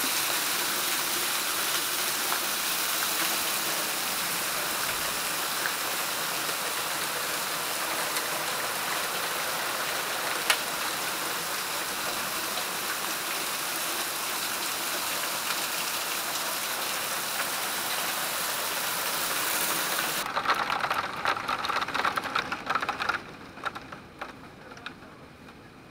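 Heavy hail falling and striking hard surfaces, a dense steady clatter. After about twenty seconds it breaks into scattered separate hits and then falls away sharply near the end.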